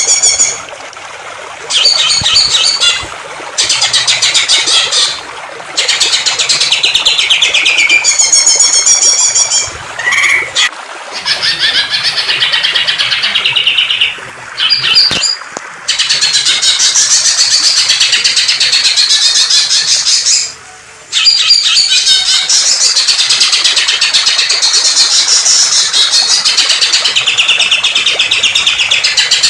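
Songbird singing loud, rapid, chattering and trilling phrases in bursts, with brief pauses between them, over a steady rush of flowing water that carries on through the pauses.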